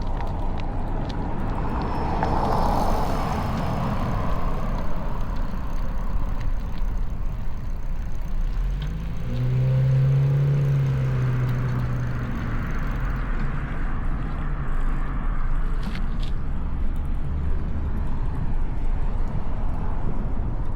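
City street traffic heard from a moving bicycle: a steady low rumble with cars passing, a swell of passing-car noise a few seconds in and a low engine hum from a passing vehicle about ten seconds in.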